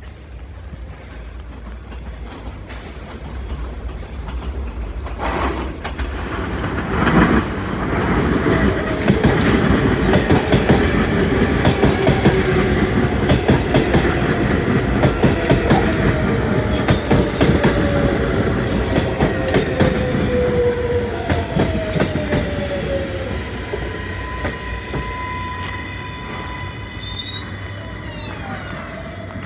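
New York City subway train running through the station. Its wheels clatter over the rail joints and give thin, gliding squeals. The sound builds over the first several seconds, is loudest in the middle, and eases off toward the end.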